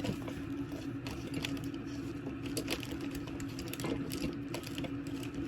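Scattered light clicks and rustles of a packaged item being handled and pulled free, over a steady low hum.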